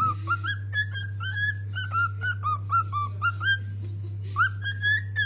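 A pet parrot chirping: a quick run of short, whistled chirps that rise and fall, about three a second, over a steady low hum.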